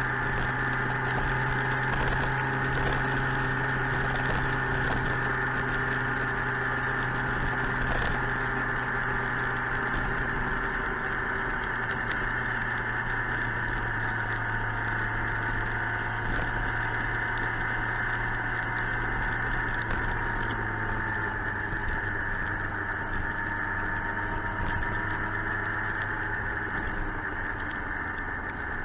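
Suzuki GSX-R 1000's inline-four engine running at a steady speed while riding, with many sharp ticks and crackles scattered over it.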